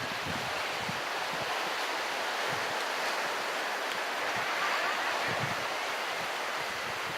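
Ocean surf washing steadily against the shore, with wind and a little wind rumble on the microphone.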